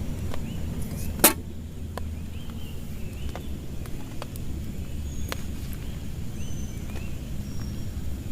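Steady rain with a low rumble, and scattered drops ticking sharply on a nearby surface. One loud tick comes about a second in.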